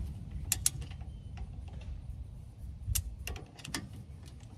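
Hand tool loosening a brake caliper bolt: irregular sharp metallic clicks and knocks as the tool is worked against the bolt.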